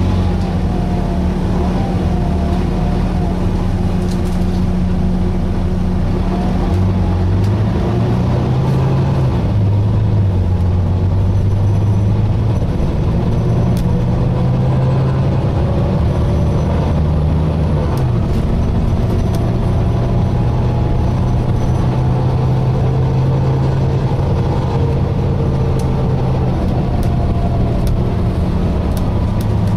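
Volvo B9TL double-decker bus's engine and drivetrain heard on board while driving. The engine note steps up and down in pitch several times as it goes through the gears, with fainter whining tones above it.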